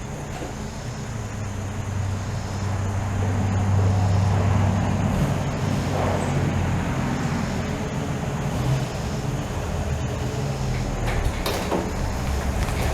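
1949 Chevy 3100 pickup's inline-six engine running as the truck drives along, getting a little louder about three seconds in and then holding steady. A few short knocks or rattles come near the end.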